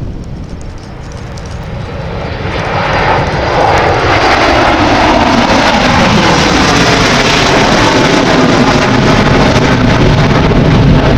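Airliner engines passing close: the noise builds over about two seconds, then stays loud while its pitch slides steadily down. Wind rumble on the microphone underneath.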